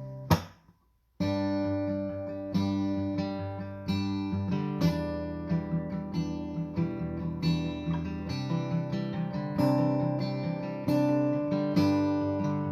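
Acoustic guitar strummed as a song intro: one sharp stroke, a moment of silence, then steady rhythmic strumming of chords.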